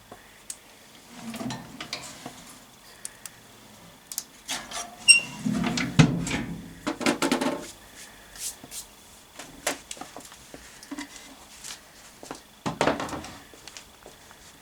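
Handling noises: irregular knocks, clicks and rubbing as objects are moved about, with one short ringing clink about five seconds in.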